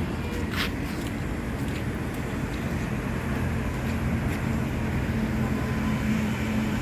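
Steady outdoor rumble of road traffic, with a low vehicle engine hum coming in about halfway through.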